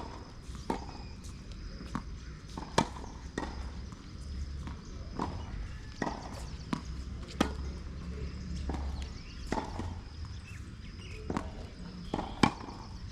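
Tennis play on an outdoor court: irregular sharp knocks of a tennis ball bouncing and being struck by rackets, mixed with players' footsteps. The two loudest strikes come about three seconds in and near the end.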